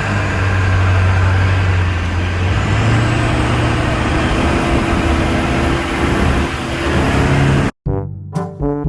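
Engine of a monster truck tour vehicle running under way, a steady low drone that rises slightly in pitch a couple of seconds in. Near the end it cuts off abruptly and brass music starts.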